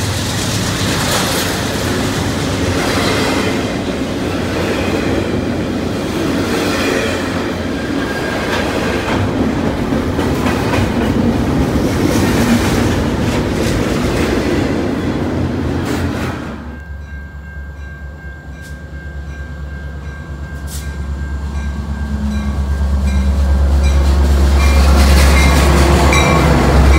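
CN double-stack container freight train rolling past at close range, with steady wheel clatter and rumble from the well cars. About 16 seconds in, the last car clears and the noise drops abruptly. A Metra commuter train's diesel locomotive then approaches, its deep engine rumble growing louder until it draws alongside near the end.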